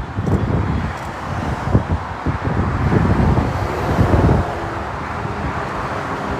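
Motorway traffic with lorries passing, a low tyre-and-engine rumble with wind buffeting the microphone in gusts. About four and a half seconds in, the buffeting eases and a steadier engine hum with a few held tones takes over.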